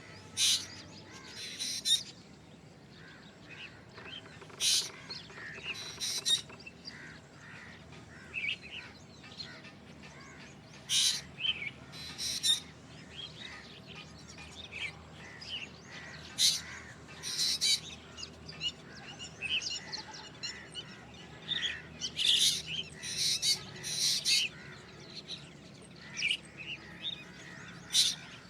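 Black drongo calling: short, sharp calls, often in pairs about a second and a half apart, repeated every few seconds, with fainter chirps in between.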